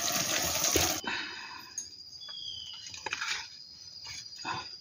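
A steady rushing hiss that cuts off suddenly about a second in. After it come faint forest insect calls, a thin steady high note with one short falling chirp, and a few light clicks and taps of handled utensils.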